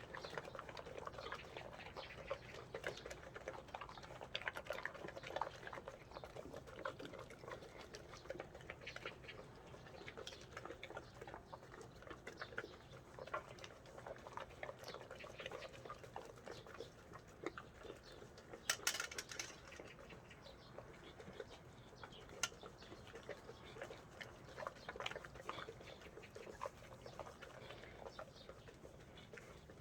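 A Cane Corso chewing and smacking dried pollack, a steady run of small wet clicks and smacks. About 19 seconds in there is one louder, sharper knock.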